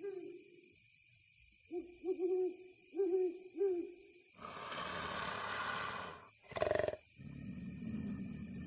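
An animal's short hooting calls, a few at the start and a run of four more a couple of seconds later. A rushing noise follows about four seconds in, then a brief sharp burst near seven seconds, and after that a steady low rumble.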